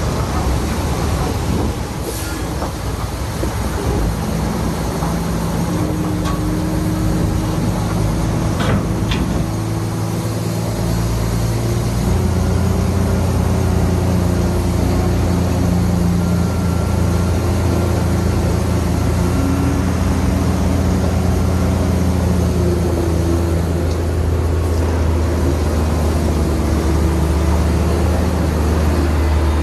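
Heavy diesel earthmoving machinery running under load, a steady low engine drone that grows deeper and stronger about twelve seconds in, with a couple of short sharp clanks in the first ten seconds.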